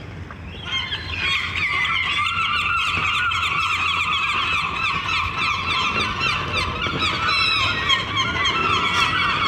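Herring gulls calling: many harsh, rapidly repeated cries overlapping into a continuous clamour that starts about a second in, over a steady low rumble.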